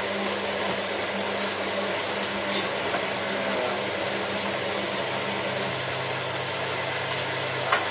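Hotpoint 9534A washing machine running, its motor giving a steady low hum over a constant noise. The hum shifts in pitch about six seconds in.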